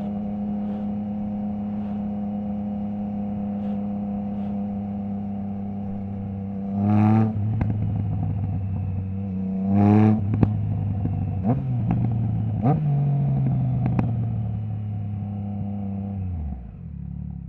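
Triumph Trident 660's three-cylinder engine through a baffle-less Zard stainless full exhaust, idling, then blipped sharply twice, about seven and ten seconds in. Several sharp pops follow the second blip, and the engine cuts off shortly before the end.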